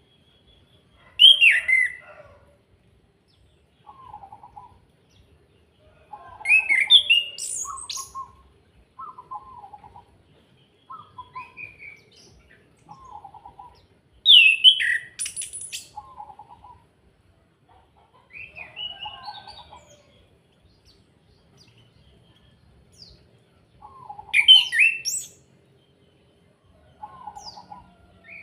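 Chestnut-capped thrush (anis kembang) singing: loud bursts of rapid, sweeping notes every several seconds, with softer, lower short phrases repeated in between.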